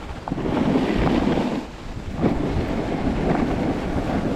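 Wind buffeting the microphone during a snowstorm on a ski slope: a heavy, uneven rumble that dips briefly about two seconds in.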